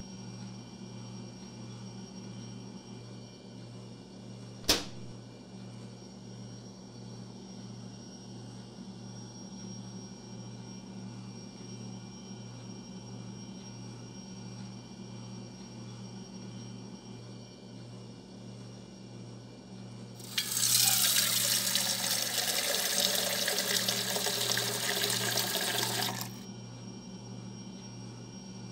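A kitchen tap is turned on and runs for about six seconds near the end, water pouring into a cup, then shuts off. Beneath it is a steady low hum with a slow pulse, and there is a single sharp click about five seconds in.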